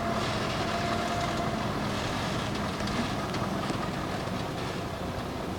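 A vehicle's engine running under a steady hiss, with a faint high whine that fades out about two seconds in.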